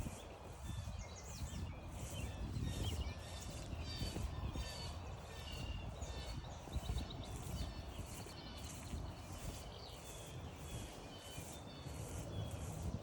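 Several songbirds chirping and trilling throughout, over footsteps crunching on the trail at an even pace of about two steps a second.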